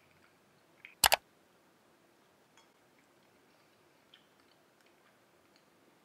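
Soft chewing with faint mouth clicks as a person eats a brownie ball. About a second in comes one loud, sharp double click.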